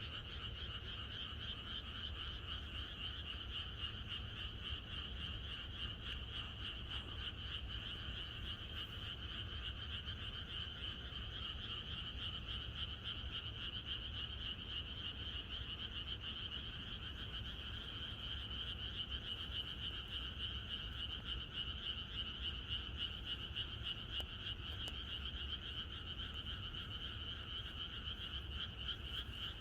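A dense chorus of many frogs calling together, a continuous, unbroken wall of calls that stays steady throughout, with a low, steady rumble underneath.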